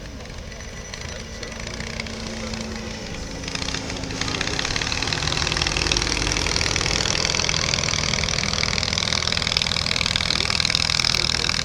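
Piston engine of a de Havilland DH-60 Moth light biplane running at low power after landing. The engine sound grows louder over the first few seconds, with a hiss building about four seconds in.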